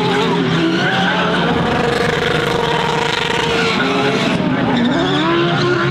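GT3 race car engines revving up and down, with tyres skidding and squealing.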